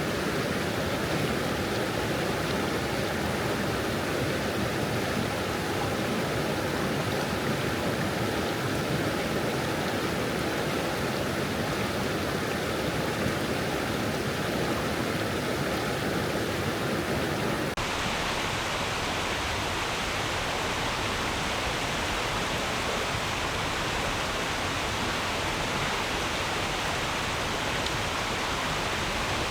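Stream water rushing and babbling over stones, a steady, even sound. Partway through it changes abruptly, becoming brighter and hissier, like a cut to another stretch of the recording.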